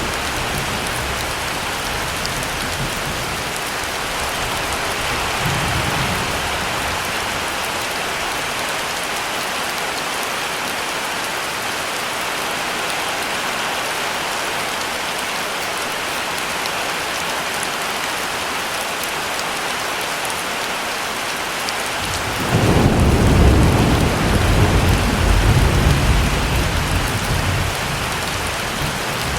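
Heavy rain falling steadily, with a faint roll of thunder a few seconds in and a louder, longer thunder rumble starting about two-thirds of the way through and fading over several seconds.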